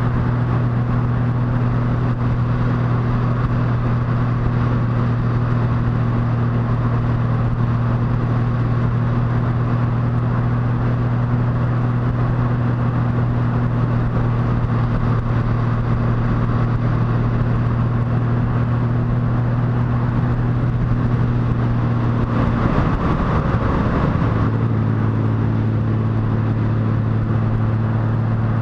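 Motorcycle engine running at a steady cruising pitch, mixed with steady wind and road noise from riding. About 23 seconds in the engine note wavers and drops for a couple of seconds, then settles back to a steady pitch.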